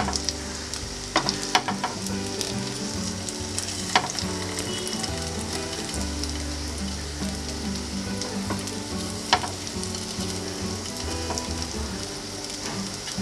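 Soya kababs shallow-frying in a little oil in a non-stick pan: a steady sizzle, with a few sharp taps of the spatula against the pan as the kababs are turned.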